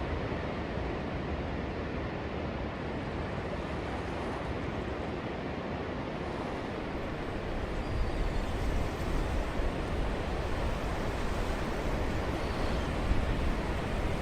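Steady rush of ocean surf mixed with coastal wind. From about eight seconds in, gusts buffet the microphone with a low, uneven rumble.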